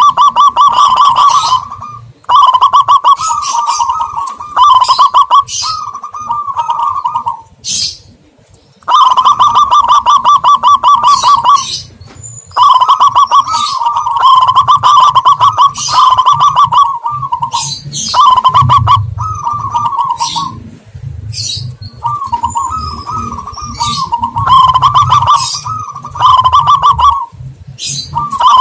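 Recorded dove calls played as a lure: loud, repeated phrases of rapid trilled cooing, each lasting about one to two seconds with short gaps between them. A low rumble sits under the calls in the second half.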